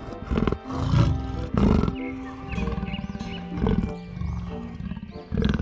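A big cat calling, several short rough growls in a row, over background music.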